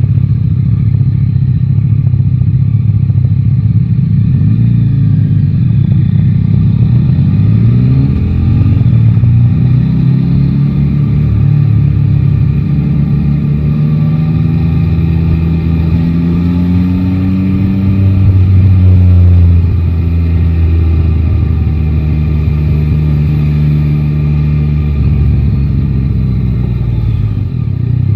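Yamaha Tracer 9 GT's three-cylinder engine on the road, rising in pitch several times as it accelerates through the gears, then dropping back and running more steadily at a lower pitch near the end.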